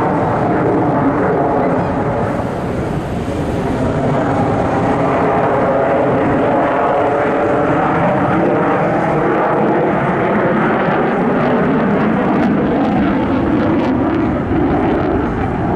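Airplane engine sound from an aircraft flying over, a steady multi-tone hum over a rushing noise that drops slightly in pitch after about twelve seconds as it passes.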